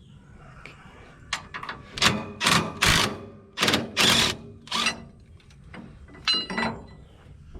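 A 9/16 wrench working a shipping-bracket bolt on a sawmill frame: a run of about six short, loud ratcheting strokes in the middle, then a ringing metal clink near the end.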